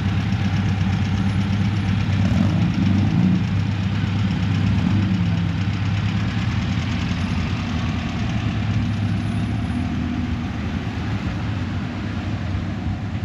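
A car engine running at idle, its pitch rising briefly and falling back a couple of seconds in.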